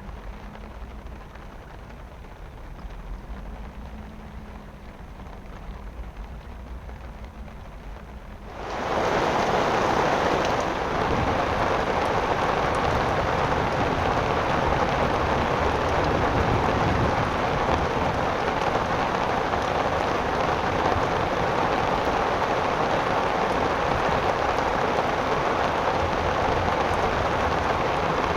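Heavy rain coming down hard. It is fairly faint at first, then about nine seconds in it jumps suddenly to a loud, steady downpour that holds to the end.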